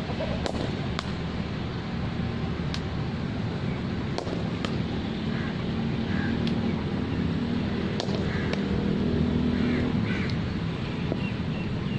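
About a dozen sharp, scattered cracks of cricket balls being struck during batting practice, over a steady low background rumble.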